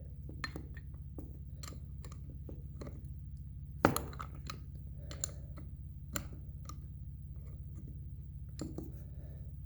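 Scattered metallic clicks and clinks of open-end wrenches on the oil injection pump's adjuster lock nut as it is worked loose, the sharpest about 4 s and 6 s in. A steady low hum runs underneath.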